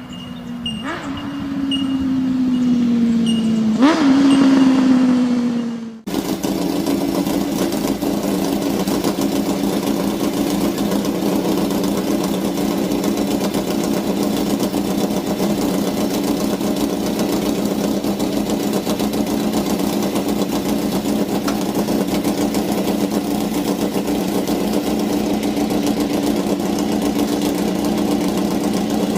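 A motorcycle engine idling steadily through its exhaust, starting abruptly about six seconds in. Before it, a different engine-like sound with a slowly falling tone is cut off.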